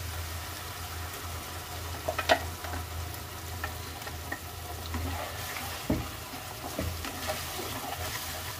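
Wet onion, tomato and green chilli paste sizzling as it goes into hot spiced oil in a kadhai, with a spatula scraping it out of a steel grinder jar and stirring it. A few sharp knocks of the spatula or jar on metal, the loudest about two seconds in, over a steady low hum.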